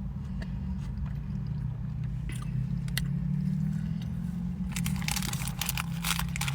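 Close-up chewing and biting of a chili cheese dog with onions, with sharp mouth clicks. From about five seconds in, a dense run of crackling, over a steady low hum.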